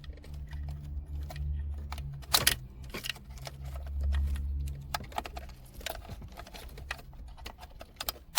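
Plastic wiring-harness connectors being unclipped and pulled from the back of a car radio head unit: scattered clicks and rattles, the loudest pair about two and a half seconds in, over a low hum.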